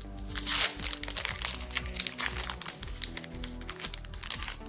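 Foil trading-card booster pack wrapper being torn open and crinkled: a burst of tearing about half a second in, then a run of quick crackles and clicks. Background music plays throughout.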